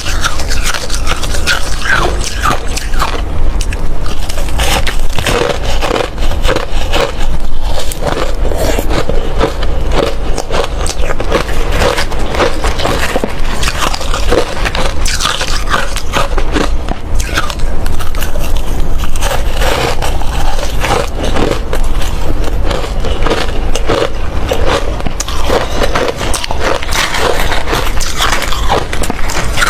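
Hard ice being bitten and chewed close to the microphone: dense, continuous crunching and cracking, loud and without a break.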